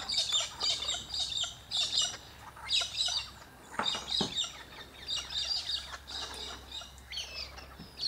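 Birds chirping in quick clusters of short, high-pitched notes, repeated about every half second, with one harsher call about four seconds in.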